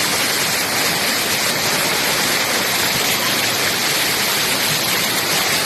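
Waterfall pouring steadily into a stream: a loud, even rush of falling water.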